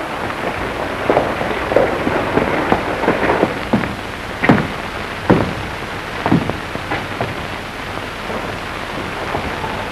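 Steady hiss and crackle of a 1930s optical film soundtrack, with scattered short knocks.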